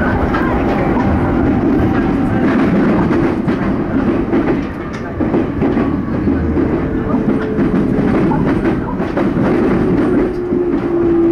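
E231-series electric commuter train running, heard from inside the car: rumble and clatter of wheels over rail joints and points. From about six seconds in, a motor whine slowly falls in pitch as the train brakes into a station.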